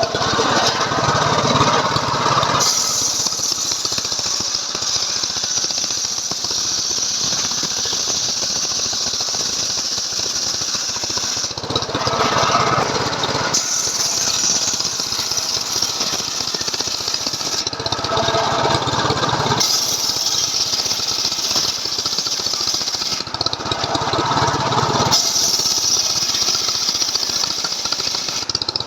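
Stihl MS 381 chainsaw engine driving a homemade saw rig through wood, running hard through long cuts. Between cuts it shifts to a lower, deeper note for about two seconds, four times.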